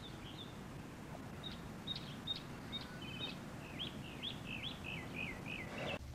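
Birds chirping over a faint outdoor background hush: scattered short, high calls, then a run of quick chirps that each slide downward in the second half.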